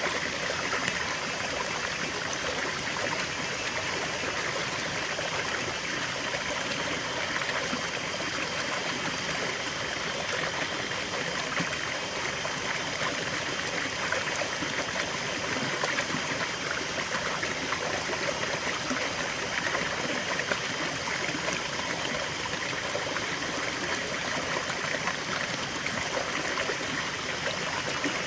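Small stream of water flowing and trickling steadily over stones, a continuous bubbling rush.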